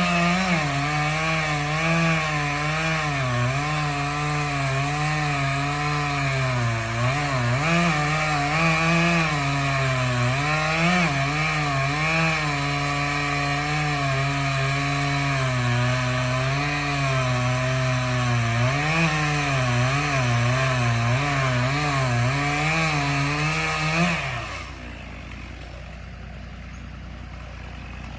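Chainsaw cutting into a large tree, its engine at high revs with the pitch wavering up and down as it bogs and recovers in the cut. Near the end it winds down and stops, leaving a lower, quieter engine running steadily underneath.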